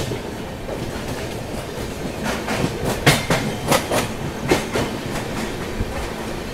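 Passenger train running on the move, heard from an open coach doorway: a steady rumble of wheels on rails. Between about two and five seconds in comes a run of sharp clacks, mostly in pairs, as the wheels pass over rail joints.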